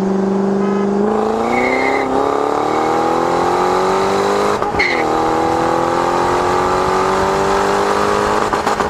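V8 car accelerating hard under full throttle. The engine note holds steady for about a second, then climbs. It drops sharply at a quick upshift a little under five seconds in, then climbs again to another upshift near the end.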